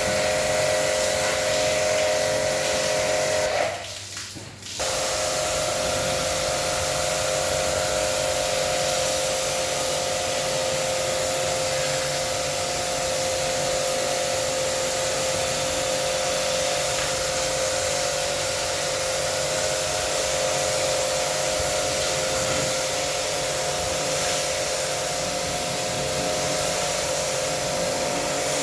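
Small electric motor running steadily, with a rushing hiss and a steady whine. It cuts out for about a second around four seconds in, then runs on as before.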